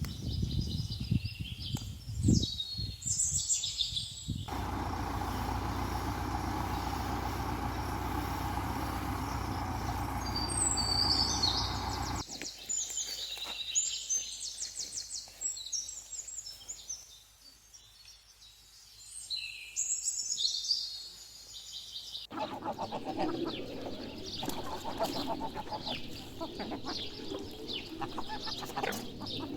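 Small birds chirping in bursts over steady outdoor background noise, the sound changing abruptly several times as shots cut.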